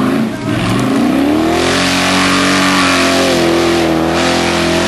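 Mud-bogging truck's engine revving: it drops briefly at the start, climbs over about a second and a half, then holds at high revs.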